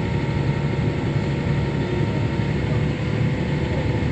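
Heavy farm machinery running steadily during on-the-go grain unloading at corn harvest: a continuous low engine drone with faint steady whining tones above it.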